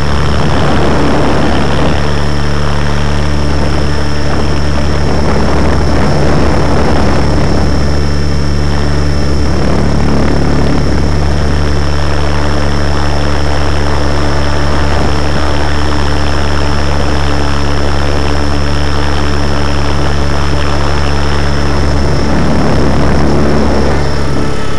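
Radio-controlled helicopter's motor and rotor running in flight, heard from a camera mounted on the machine's tail end: a loud, steady drone with a thin, steady high whine over it.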